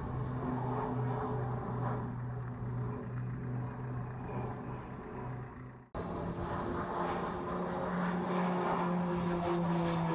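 Conair S-2FT Turbo Firecat's twin PT6A turboprop engines running, a steady propeller drone. The sound cuts out abruptly about six seconds in, then resumes with a high turbine whine over the propeller tones, whose pitch drifts slowly.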